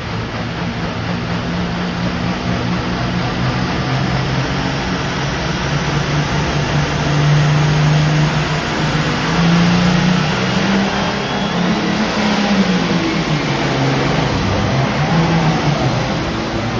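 International 1486 pulling tractor's turbocharged diesel engine running hard under load during a pull, its pitch wavering up and down.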